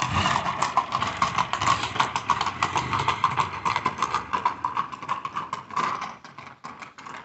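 Horse's hooves clip-clopping in a quick, steady run of hoofbeats, fading away after about six seconds as the horse moves off.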